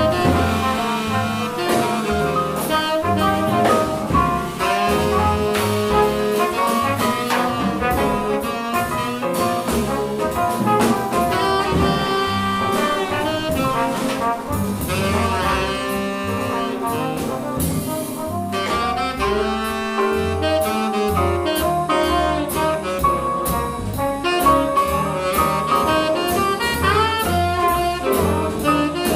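Live jazz quintet playing a tune: saxophone and bass trumpet lines over piano, bass and drums.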